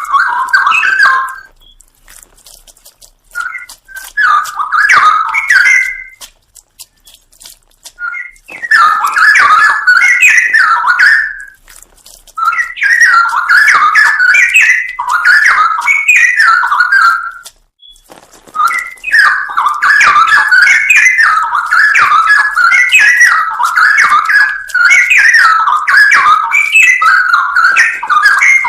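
Straw-headed bulbul (cucak rowo) singing loud, rich, bubbling warbled phrases. The song comes in bursts of a few seconds, with short pauses between them.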